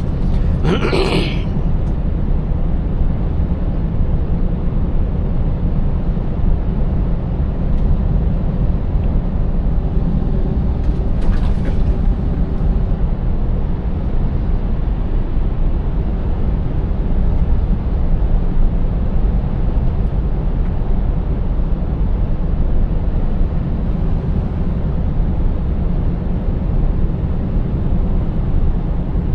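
Scania 590S truck's 16.4-litre V8 diesel running steadily under way, a continuous low drone mixed with road noise. A brief rushing sound comes about a second in.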